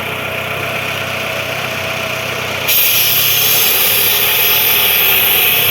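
An engine running steadily. About a third of the way in it suddenly gets louder, with a strong hiss added on top.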